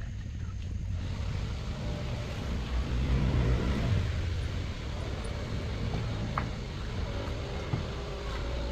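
An engine running with a steady low rumble, with a single short click about six and a half seconds in.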